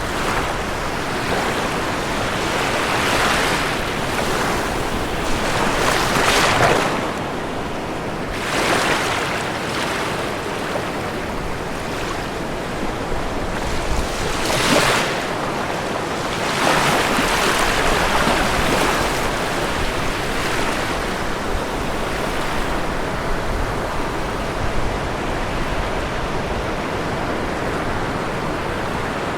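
Ocean waves breaking and washing on a shore under a steady surf hiss, with louder swells every few seconds, the biggest at about 6 and 15 seconds in.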